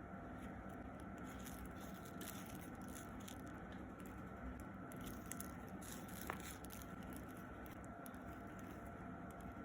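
Faint handling of fast-food packaging and a burger: light rustles and taps, with one sharp click about six seconds in, over a steady low room hum.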